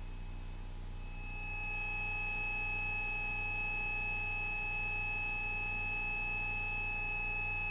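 A steady high-pitched electrical whine, made of several fixed tones, comes in about a second in and holds over a low steady hum. It is the sort of whine picked up on a light aircraft's intercom audio.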